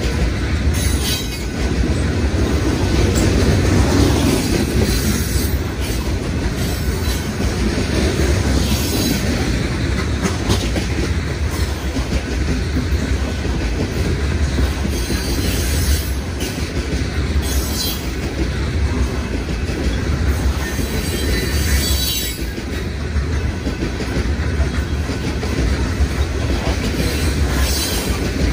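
Railroad cars rolling past on a BNSF line: a steady low rumble of wheels on the rails, with brief high squeals and clicks every few seconds.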